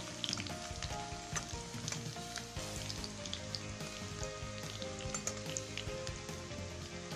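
Cauliflower florets sizzling as they fry in hot mustard oil, with a steady hiss and many small crackles of popping oil.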